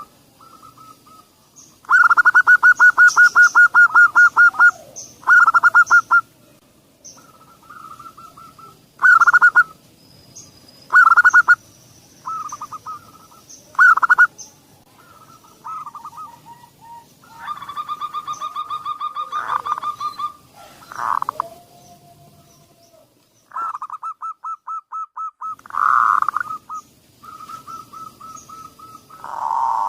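Zebra doves (perkutut) cooing in repeated bouts: fast runs of short pulsed notes at about one pitch, several birds calling in turn. Fainter high chirps of small birds sound behind them.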